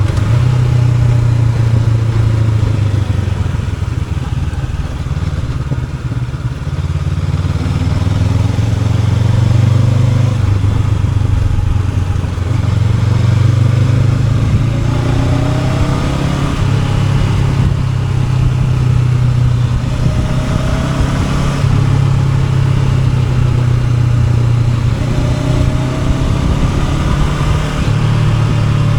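Honda NX500's parallel-twin engine running under way. Its pitch steps up and down with throttle and gear changes, and it rises in a few short glides as the bike accelerates about halfway through and near the end.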